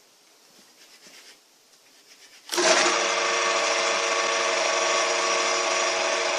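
AD-180 180 W washing-machine motor, with a run winding and a start winding, switched on through its start relay. About two and a half seconds in it starts running with a loud, steady hum, then cuts off suddenly after about four seconds. The owner says this motor runs incorrectly and heats up strongly.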